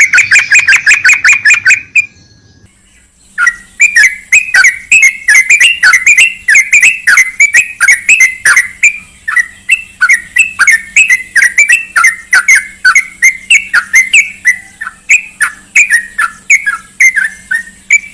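Yellow-vented bulbul (trucukan) calling: a fast run of short notes for about two seconds, a break of about a second, then a long string of bubbly chirping notes at about three a second.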